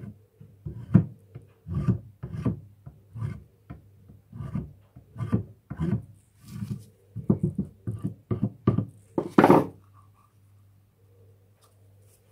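Hand tool rasping along the edges of lead sheet in repeated strokes, about one or two a second, cleaning the metal bright to prepare the joint for lead welding. The last stroke is the loudest, and the strokes stop a couple of seconds before the end.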